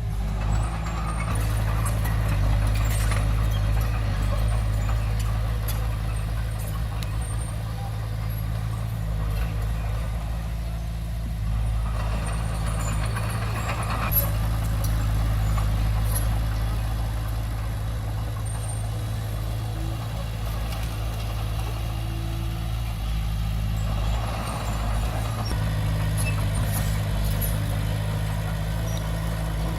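Komatsu D20P crawler bulldozer's diesel engine running steadily at working revs, with higher machine noise swelling and easing over the drone.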